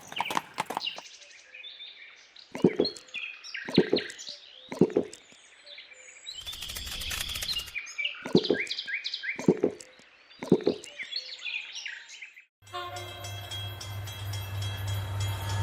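Small birds chirping, with a run of short, sharp calls or knocks among them. About twelve and a half seconds in, this gives way to a steady low mechanical hum carrying a sustained tone.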